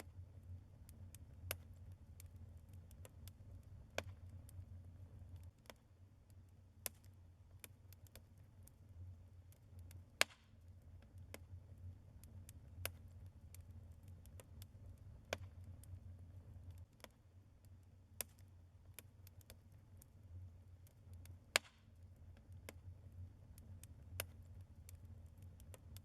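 Burning logs in a fireplace crackling: irregular sharp snaps and pops, with a few louder pops about ten seconds in and again near twenty-one seconds, over a low steady hum.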